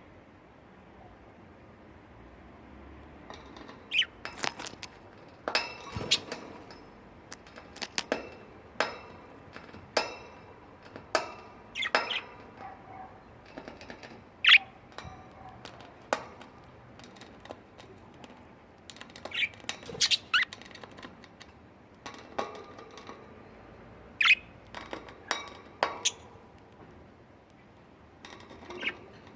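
Pet budgerigars giving short, sharp chirps and squawks at irregular intervals, some sliding down in pitch, with quiet gaps between them.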